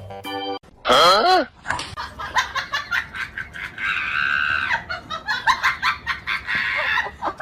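A loud, wavering cry about a second in, then a person laughing hard in quick bursts.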